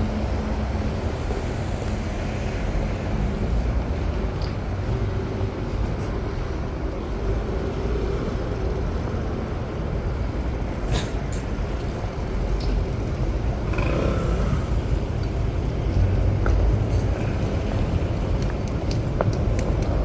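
City street traffic: a steady low rumble of cars and buses running past, with a few short clicks on top.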